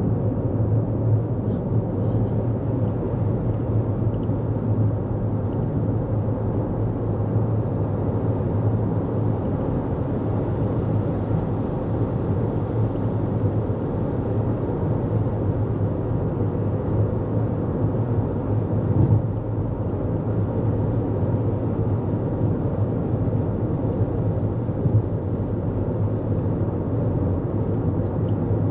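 Steady tyre and engine drone of a 2024 Toyota Corolla Cross cruising on the highway, heard from inside the cabin, with two brief bumps about 19 and 25 seconds in.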